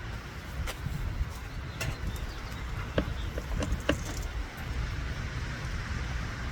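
Wind buffeting the microphone as a steady low rumble, with a handful of short sharp clicks about a second in and again around three to four seconds in.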